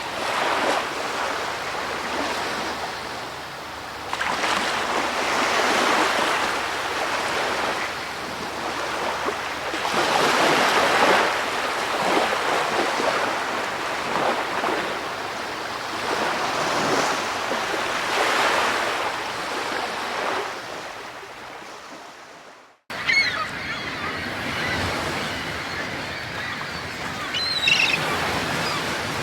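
Ocean waves washing in and out in slow surges. About 22 seconds in they fade out and the sound cuts; the surf then resumes with a few short bird calls.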